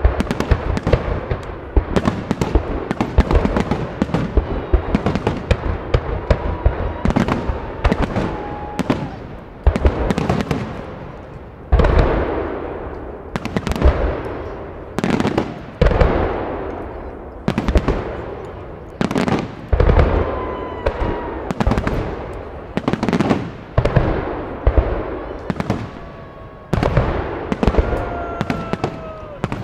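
Fireworks salute: aerial shells bursting one after another, each a sharp bang that echoes and dies away. Dense, rapid reports fill the first half; from about twelve seconds in, big bursts come every second and a half to two seconds.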